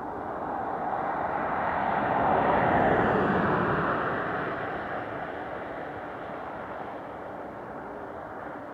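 Aircraft passing: engine noise swells to a peak about three seconds in, then slowly fades.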